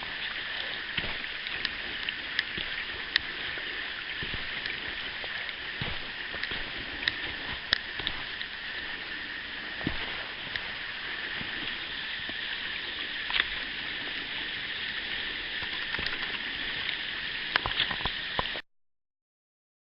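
Steady high hiss of rainforest ambience: running water from a small stream or waterfall mixed with an insect chorus, with scattered light clicks throughout. It cuts off suddenly about eighteen and a half seconds in.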